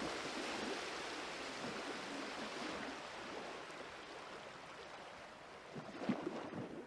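Steady rushing of water, slowly growing fainter, with a few faint knocks near the end.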